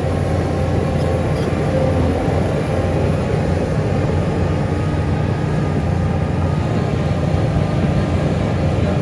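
Heavy diesel engine of a construction machine running steadily, with a deep, even drone.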